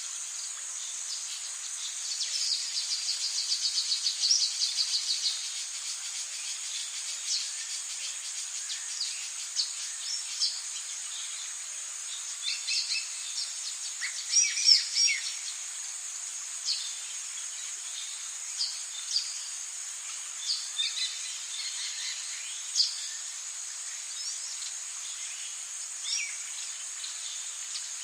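Rainforest ambience: a steady high-pitched insect drone with scattered bird calls over it. A fast trill runs from about two to five seconds in, and a cluster of louder calls comes around twelve to fifteen seconds in.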